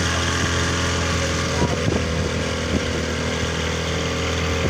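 Boat's outboard motor running steadily under way, a constant engine hum, with a few short knocks about two seconds in.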